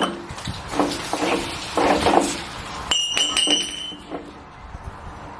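Water heater heating element being unscrewed from the tank: metal scraping and rattling, then a few sharp metallic clinks that ring briefly about three seconds in.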